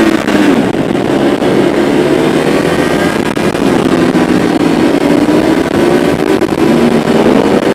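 Ducati motorcycle engines running steadily on a parade lap, the engine note dipping a little mid-way and rising again near the end, over a steady rush of noise.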